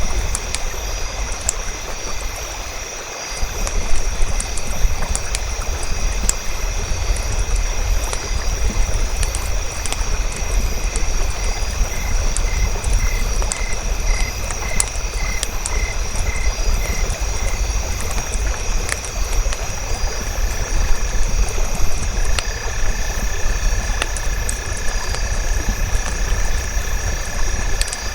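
Campfire crackling with a low rumble, set against a steady night chorus of insects and frogs. About a third of the way in, one call repeats about twice a second for several seconds; later a steady high trill sets in.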